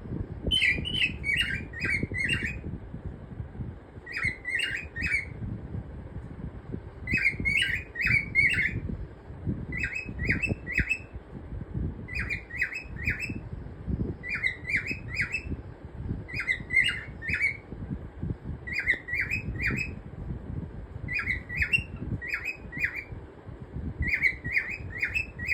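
Cockatiel singing: short bursts of four or five quick chirping notes, repeated about every two seconds, over a low rumble with knocks.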